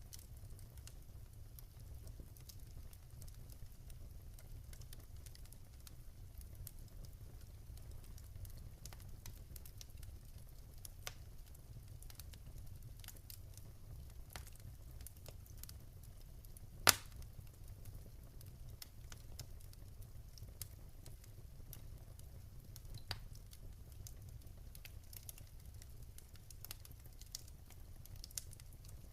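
Wood fire crackling in a fireplace: a low steady rumble with scattered small pops and clicks, and one sharp loud pop about two-thirds of the way through.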